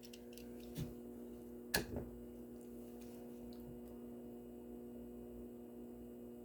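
Faint steady electric hum of a small motorised display turntable, with a light click about a second in and a sharper click just before two seconds.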